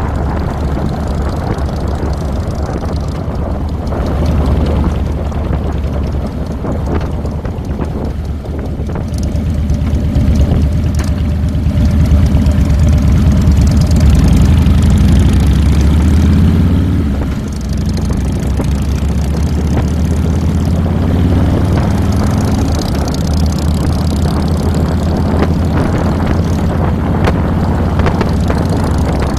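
2007 Harley-Davidson Fat Boy's air-cooled Twin Cam 96 V-twin engine running on the road, its low exhaust note rising and falling with the throttle. It is loudest through the middle and drops briefly about 17 seconds in.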